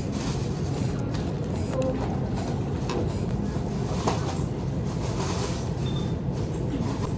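Steady low rumble of vehicle noise, with a few faint scattered clicks.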